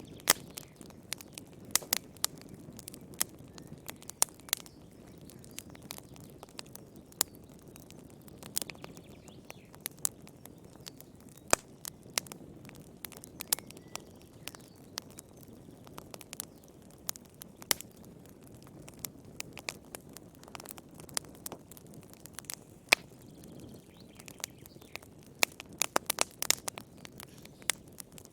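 Wood fire burning in a fireplace: a low steady rush of flames under frequent, irregular sharp crackles and pops, in small flurries now and then.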